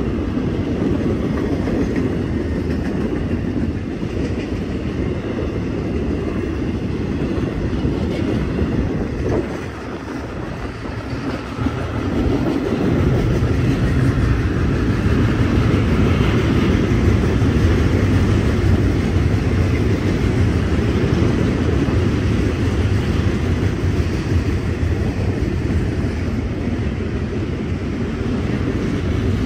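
Norfolk Southern freight train's cars rolling past on the rails, a steady noise of wheels on track. The sound drops briefly about ten seconds in, then grows louder from about thirteen seconds on.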